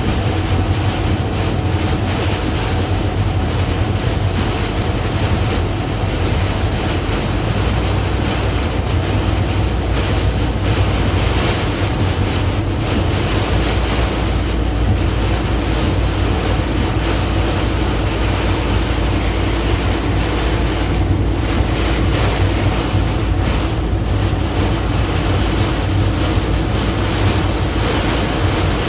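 Heavy rain pouring down steadily, a dense, even hiss with a faint low hum beneath it.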